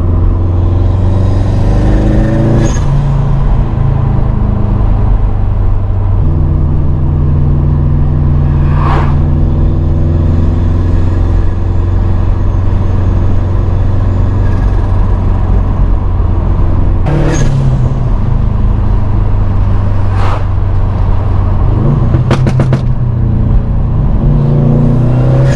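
Remapped Subaru WRX STI's turbocharged flat-four engine heard from inside the cabin while driving, its note rising and then dropping with gear changes several times and climbing again near the end. A few short sharp sounds cut through, with a quick cluster of them a little before the end.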